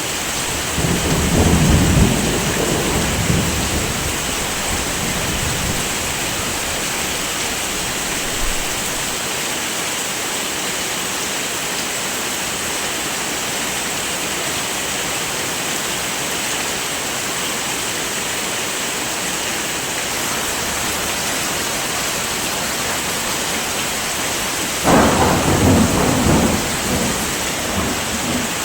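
Steady heavy rain, with two low rolls of thunder: one about a second in, lasting a few seconds, and another near the end.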